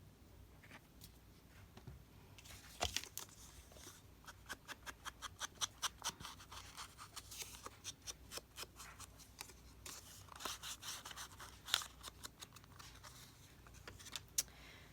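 Quiet paper-crafting handwork: quick scratchy strokes on paper and card, several a second in runs, with a few sharper clicks.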